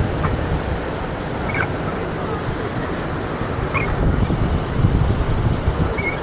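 Steady roar of a large waterfall close by, with wind and spray buffeting the microphone, louder and gustier about four seconds in. A few short high chirps sound over it.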